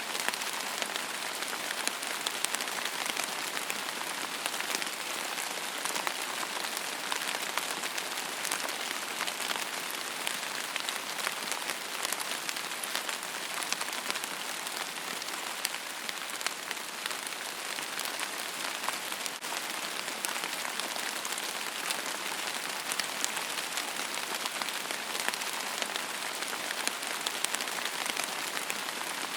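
Steady rain falling and pattering on a surface, an even hiss dotted with fine individual drop ticks, no thunder.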